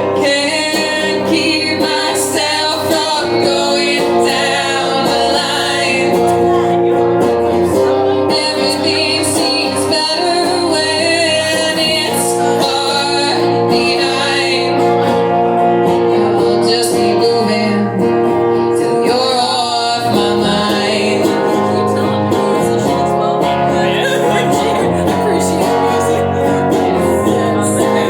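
A band playing a song live: guitar with a singing voice over it.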